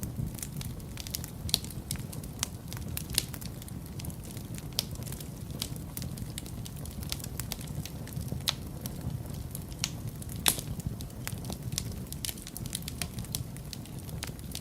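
Wood fire in a fireplace burning steadily with a low rumble, crackling and popping at irregular intervals; one louder pop comes about ten and a half seconds in.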